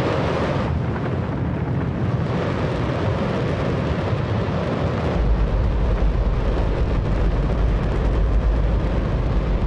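Space Shuttle main engine, a liquid hydrogen and oxygen rocket engine, firing in a static test: a steady, extremely loud roar whose deep rumble grows heavier about five seconds in.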